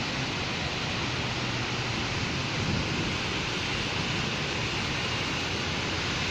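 Steady rain falling on a city street, an even hiss with a low traffic rumble beneath.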